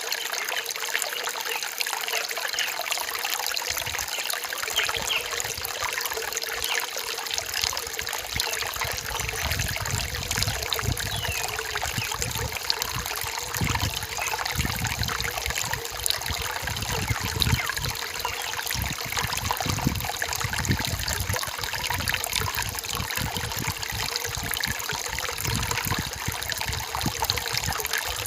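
Rain-forest stream trickling steadily over stones, with uneven low pulses of water joining about eight seconds in.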